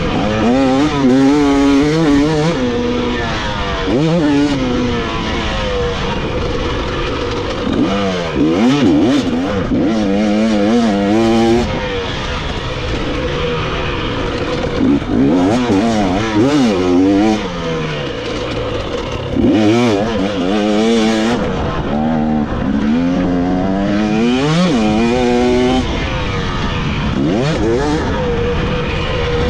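Dirt bike engine revving hard on the track, its pitch climbing and dropping back again and again as the rider opens and closes the throttle and shifts.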